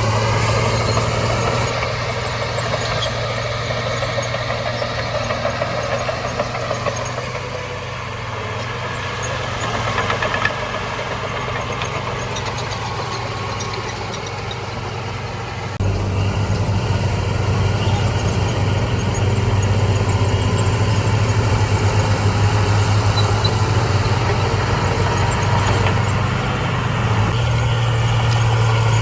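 Heavy diesel engine of earthmoving machinery running with a steady low drone, stepping up abruptly in loudness a little past halfway.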